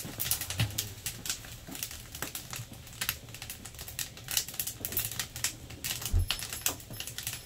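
Split firewood burning in a large wood stove, crackling and popping in an irregular run of sharp snaps. A single dull thump comes about six seconds in.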